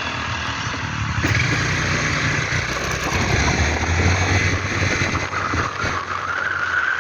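A road vehicle driving along, its engine and road noise steady. It gets louder a little over a second in.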